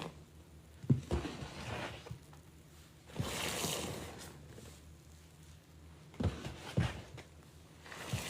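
Wet, soapy sponge squeezed in a basin of rinse water: water splashing and squishing, with a splashy gush about three seconds in and a few sharp knocks near the start and again about six seconds in.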